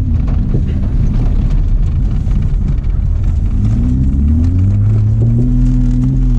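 Holden VS Commodore engine being driven hard on dirt, heard from inside the cabin: the revs drop at the start, stay low and rough for a few seconds, then climb about three and a half seconds in, hold high, and fall back just before the end.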